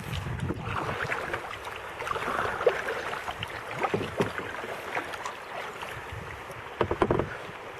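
Kayak paddles dipping and splashing, with water washing around the hull. A few short sharp knocks stand out, a cluster of them near the end.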